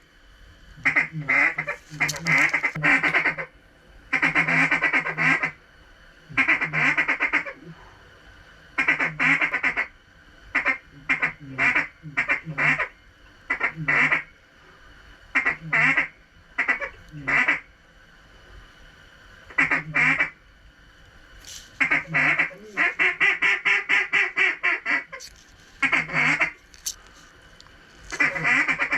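Mallard quacking in loud repeated series of quacks, with a fast run of short chattering notes about three-quarters of the way through.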